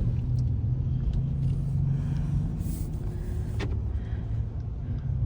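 Steady low rumble of a vehicle's engine and road noise, with a constant low hum.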